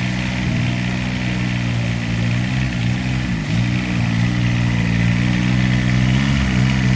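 Freshly rebuilt Kubota D722 three-cylinder diesel engine running steadily on its first start, with a brief dip in speed about three and a half seconds in.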